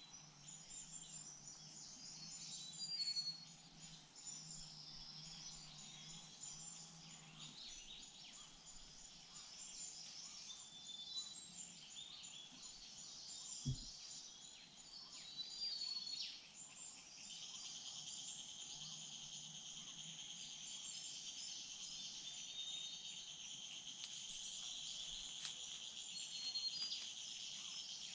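Woodland insects chirring high and continuous, with small birds giving short whistled calls; a steadier insect drone sets in a little past halfway. A single low thump comes about halfway through.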